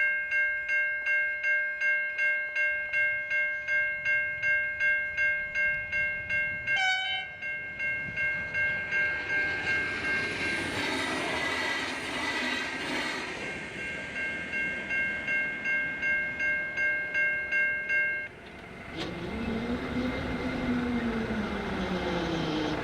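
Safetran Type 3 electronic level-crossing bells ringing rapidly, about two strokes a second, while a train passes over the crossing for several seconds. The bells stop near the end, and a road vehicle's engine then revs as traffic moves off.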